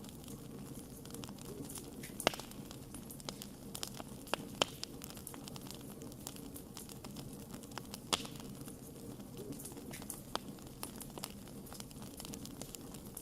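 Wood fire crackling: irregular sharp snaps and pops over a steady low hiss of burning, with a few louder snaps about 2, 4.5 and 8 seconds in.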